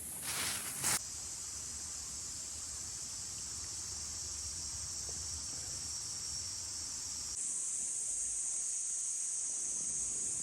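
A steady high-pitched hiss that steps slightly in pitch and loudness about seven seconds in. A brief rush of noise comes near the start.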